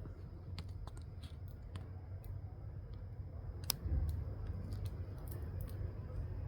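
Irregular small crunching clicks, typical of a wide-bellied mantis chewing through a spotted lanternfly's hard body, over a steady low rumble and a faint high whine, with one louder click and thump about two thirds of the way in.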